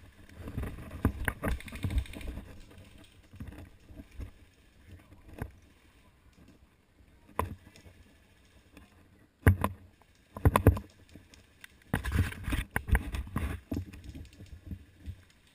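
Footsteps, rustling gear and handling knocks from a player moving on foot with the camera. They come in irregular clusters of thumps and sharp knocks near the start, about two-thirds of the way in and near the end, with quieter gaps between.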